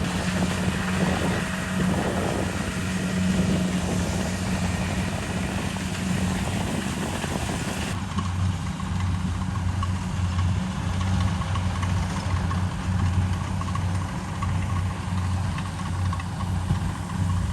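Combine harvester's diesel engine running steadily with a low, even hum; the sound changes abruptly about eight seconds in, the hiss thinning and the low hum pulsing more.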